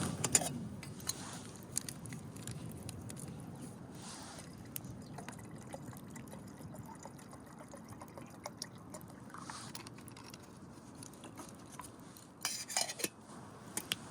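Small wood fire crackling faintly, with scattered light pops and ticks, and a brief louder rustle about three-quarters of the way through.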